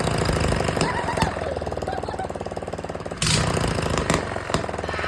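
Mini bike engine running with a rapid steady firing beat, blipped loudly twice, at the start and about three seconds in, with several sharp pops from the exhaust as it shoots flames.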